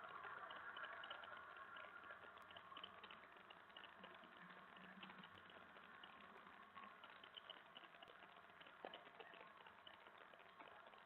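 Near silence: a faint steady hiss with small scattered ticks and crackles.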